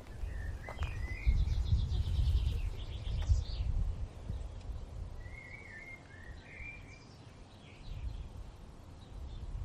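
Small birds chirping, with a rapid trill about a second and a half in and more chirps around five to seven seconds in, over a low rumble that is loudest in the first few seconds.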